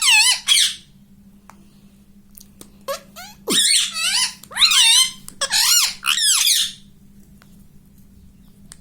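Ringneck parrot making high-pitched, warbling squawks: a short pair of calls at the start, then after a pause a run of about five calls a few seconds in.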